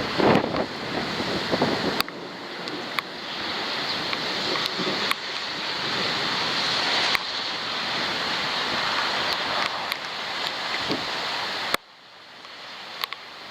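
Heavy rain and gusting wind on a waterproof camera's microphone during a thunderstorm: a dense steady wash of noise with scattered sharp ticks of drops hitting the camera. It drops away suddenly about twelve seconds in, then starts to build again.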